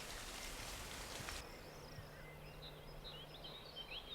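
Steady rain hiss that cuts off abruptly about a second and a half in, followed by faint scattered bird chirps.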